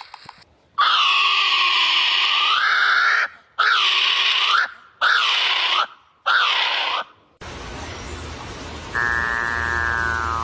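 Bird calls: four loud, harsh calls, the first long and the next three shorter, each bending down and back up in pitch. After a break, a different bird gives a rapid, rattling call over a steady background hiss near the end.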